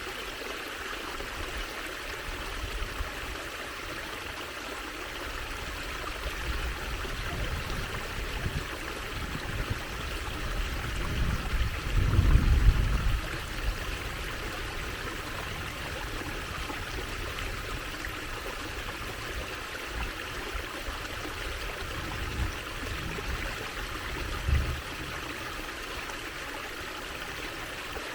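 Water trickling and running steadily, a constant even hiss. About twelve seconds in, a louder low rumble swells for a second or two, and a few brief low thumps come later.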